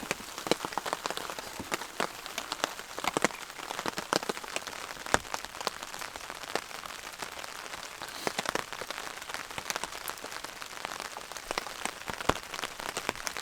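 Rain falling steadily on a tarp shelter, with loud drops tapping the fabric at irregular moments over the patter.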